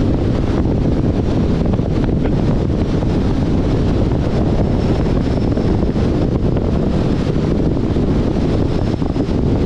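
Wind buffeting the microphone of a camera on a moving car, a steady rough rumble of wind and road noise with no breaks.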